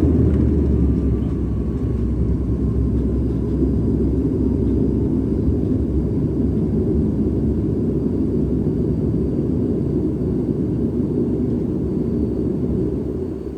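Steady rumble of a Dash 8 Q400 turboprop airliner heard from inside the cabin, with a low hum that fades about four seconds in.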